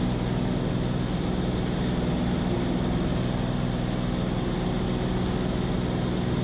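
A small seaplane's engine and propeller running with a steady, even drone.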